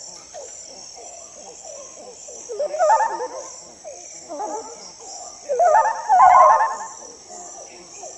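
Crickets chirping steadily as nature ambience, with bursts of warbling chirped calls over them, loudest about three seconds in and again about six seconds in.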